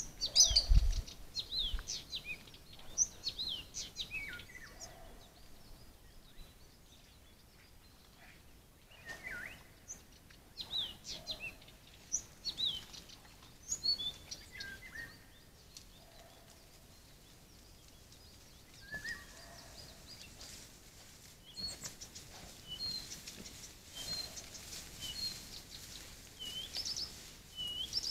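Small songbirds chirping and calling repeatedly in short, high notes, with a low thump about a second in.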